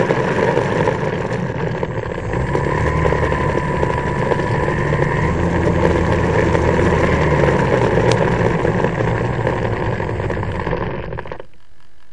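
Onboard sound of a small electric RC plane in flight: the electric motor and propeller whine steadily over wind rush across the airframe. Near the end the sound drops away suddenly.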